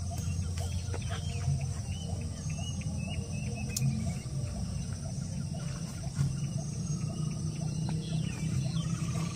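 Small birds chirping in short, repeated calls, over a steady low rumble.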